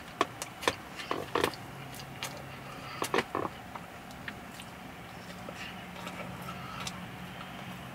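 Close-miked chewing of a mouthful of fast food, wet mouth smacks and clicks, busiest in the first few seconds and then softer. A low steady hum runs underneath.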